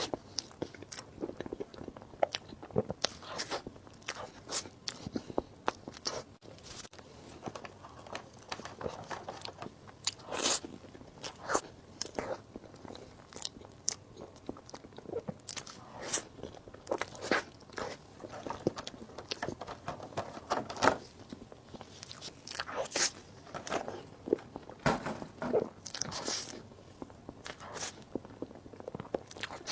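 Close-miked eating sounds: an irregular run of short, sharp bites and chewing, a few clicks a second with louder bursts every so often.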